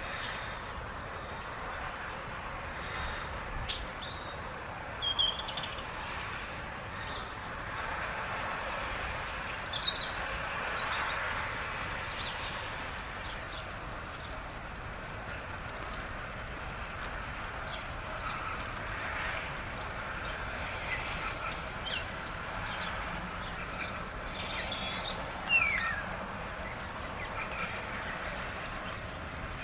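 Small birds calling at feeders: many short, high chirps and tweets scattered throughout, with one longer call sliding downward in pitch near the end, over steady outdoor background noise.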